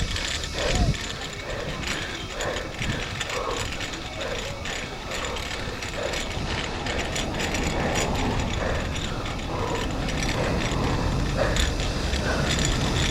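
Bicycle rear freehub ticking rapidly as the bike coasts, its pawls clicking in a fast steady stream, over a low rumble.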